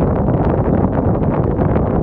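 Strong wind blowing, with a steady, loud low rumble of wind buffeting the microphone.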